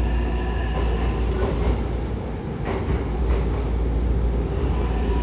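Hankyu commuter train running, heard from inside the car: a steady rumble of wheels on track with a faint motor whine, and a couple of light wheel clacks partway through.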